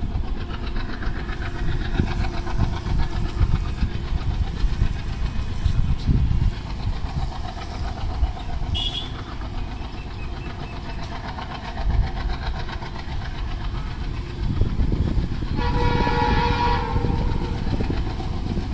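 Freight train hauled by a 65-series diesel locomotive approaching with a steady low rumble, and the locomotive's horn sounding once for about a second and a half near the end.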